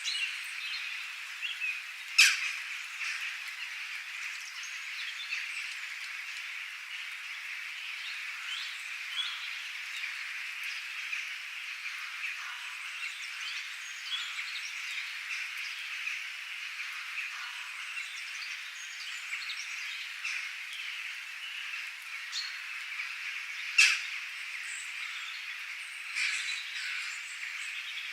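Dense, steady chorus of many small chirping calls from birds and other calling animals, with two brief, loud, sharp calls standing out, about two seconds in and again near the end.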